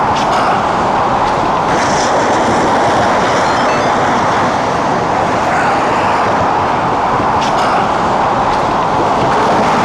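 Steady, dense noise of road traffic passing on the bridge roadway just beside the walkway.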